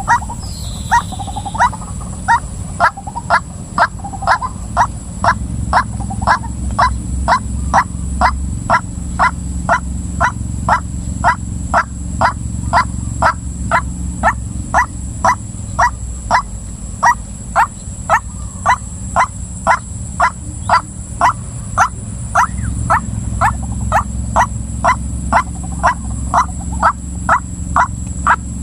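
Female white-breasted waterhen calling: a short, sharp note repeated at an even pace of about one and a half to two a second, on and on without a break. A steady low hum runs underneath.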